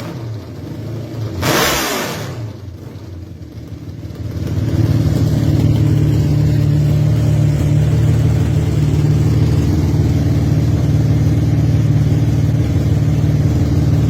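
A motorcycle passes close by about a second and a half in, its engine note falling in pitch as it goes. From about four and a half seconds a motorcycle engine runs loud and steady near the microphone.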